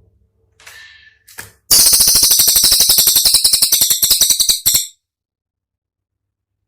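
Cililin songbird giving a 'tembakan' burst: two short high calls, then a loud, very rapid rattling trill of about a dozen notes a second for some three seconds, which cuts off suddenly.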